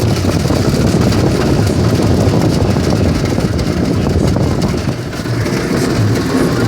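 Automatic car wash working over a car, heard from inside the cabin: a loud, steady wash of noise with a low rumble underneath.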